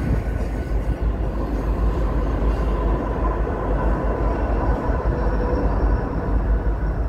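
Union Pacific freight train rolling past, a steady rumble of locomotive and cars heard from inside a car.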